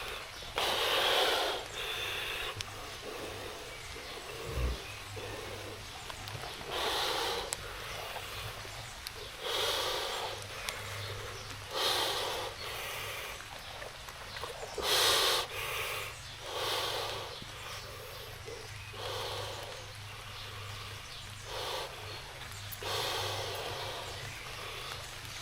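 A person breathing heavily, about ten loud breaths spaced two to three seconds apart, over a steady hiss of heavy rain.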